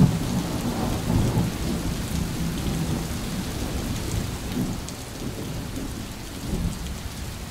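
Steady, dense water noise with a deep low rumble underneath, easing off slightly over the last few seconds.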